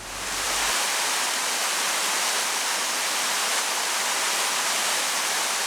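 Water cascading over rocks in a small moorland stream, a steady rushing that fades in over the first second.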